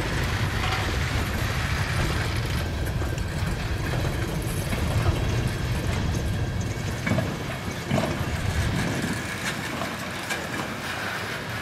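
Freight train of covered coil-steel cars rolling past, steel wheels on rail giving a steady rumble, with a couple of louder knocks about seven and eight seconds in.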